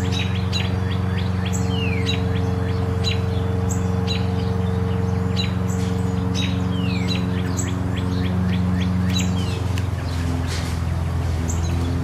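Many birds chirping, short high calls and quick falling notes coming several times a second, over a steady low hum that shifts in pitch about nine and a half seconds in.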